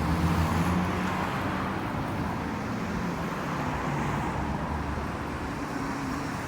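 Street traffic: a motor vehicle's engine hum under steady road noise, a little louder in the first second.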